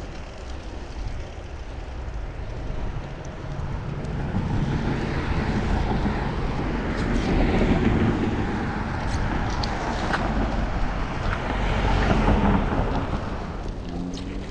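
Motor traffic passing on a city street, the noise of engines and tyres swelling over several seconds, peaking twice and easing near the end, as an engine note starts to rise.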